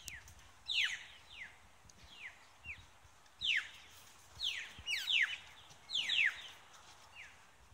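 Birds calling: a run of short, high calls that each sweep quickly downward, coming one or two a second and sometimes overlapping.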